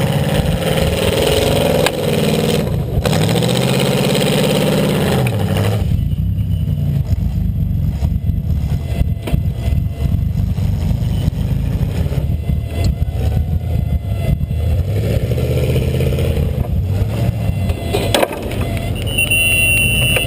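Buick LeSabre's 3.8-litre V6 engine revving up and down, heard from inside the car, then running hard with a rough rumble and many clattering knocks. A sharp bang near the end.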